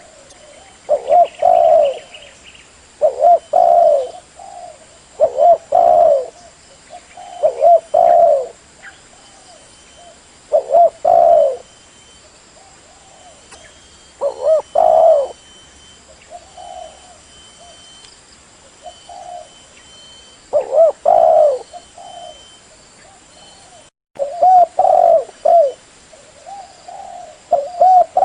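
Spotted dove (tekukur) cooing: a low, repeated coo phrase about every two seconds, with softer single coos in between.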